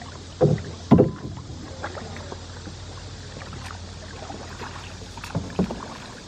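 Canoe being paddled on the water: a steady rush of water and wind, with a few sharp knocks, two near the start and two more near the end.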